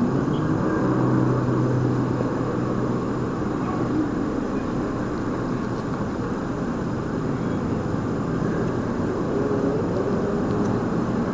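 Steady running noise of a motor vehicle, an even low rumble with no sharp events.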